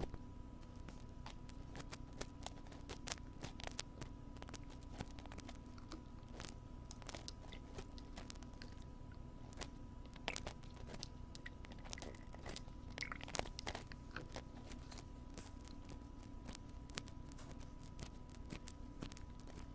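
Wooden ear pick scraping and clicking inside a binaural microphone's ear, an irregular run of close, crackly scratches and taps.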